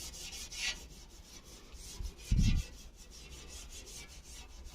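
Rubbing and scraping of parts being handled and pressed into place on a car sunroof, with one dull thump about two and a half seconds in.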